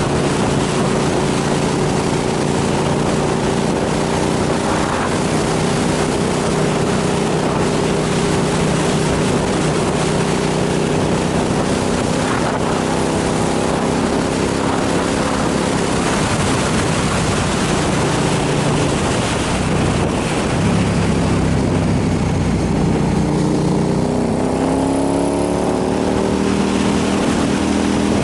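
Motorcycle engine running at a steady cruising speed under strong wind rush. After about twenty seconds the engine note climbs as the bike accelerates, then drops briefly as it shifts up.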